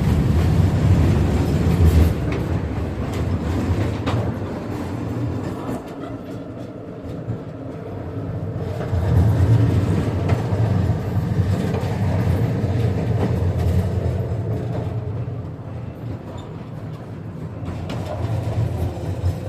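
KTM-5M3 tram (71-605) running along its track, heard from inside the car. A low rumble of wheels and running gear swells louder twice and eases off in between, with a few faint clicks.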